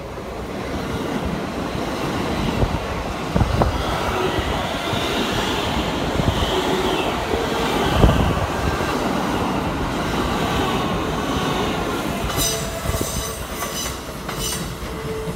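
Keikyu 1000 series eight-car electric train running close by: a dense rumble of wheels on rail that swells as it approaches. A high whine wavers through the middle, and there is one heavy thump about eight seconds in. Near the end a steady tone and sharp high clicks come in as the train moves away.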